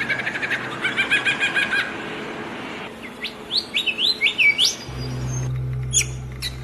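Small birds chirping and singing: a fast run of repeated chirps, then a string of quick rising whistled notes, then a few sharp high chirps near the end. A low steady hum comes in about five seconds in.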